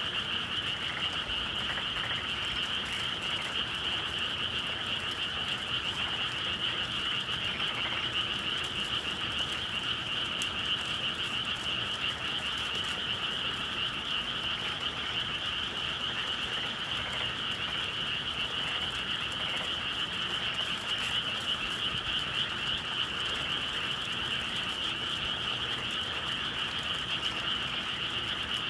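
Chorus of many frogs calling at once on a spring night, a dense, steady, unbroken chorus without pauses.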